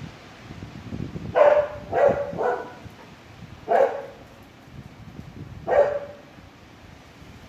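A dog barking five times, three quick barks and then two single ones, over a steady low rush of wind.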